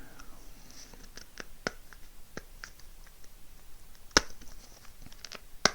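Packaging being handled: scattered small clicks and taps, with two sharper clicks about four seconds in and just before the end.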